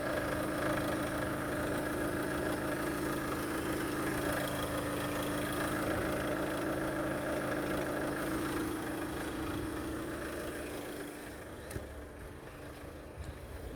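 Chevrolet Captiva's Z20S1 2.0 litre four-cylinder common-rail diesel engine idling steadily, being run to check its condition. The running fades out about eleven seconds in, as the engine is switched off.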